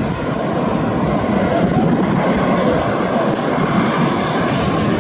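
Boeing 787-9 Dreamliner's jet engines during landing: a steady roar that swells slightly about a second and a half in.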